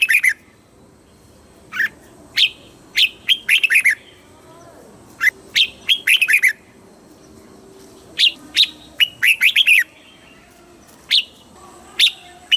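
Red-whiskered bulbul singing: short bright phrases repeated every two to three seconds. Each phrase is a quick sharp note followed by a fast run of falling chirps.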